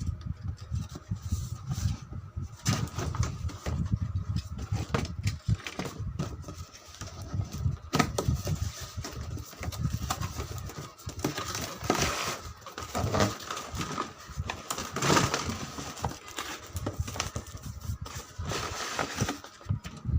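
Irregular clicking, rattling and crackling from a plastic remote-control toy excavator, with a few louder clattering stretches.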